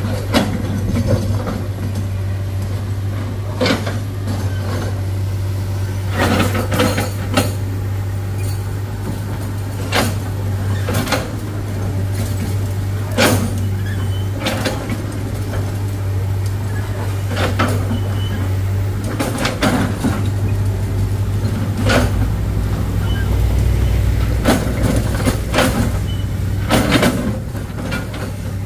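Excavator's diesel engine running steadily, with sharp irregular knocks and clanks every second or two from the machine working on rock. The engine note deepens for a few seconds about two-thirds of the way through.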